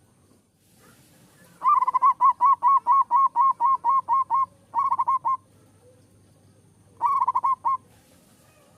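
Zebra dove (perkutut) singing: three phrases of rapid, evenly spaced cooing notes, about five a second. A long run of about fourteen notes comes first, then a short run of about five, then a run of about six near the end.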